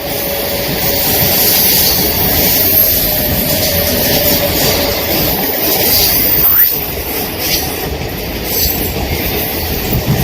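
An Indian Railways express train running past at speed, with a loud, steady rush of wheels on rails. Faint clicks of wheels over rail joints come in during the last few seconds.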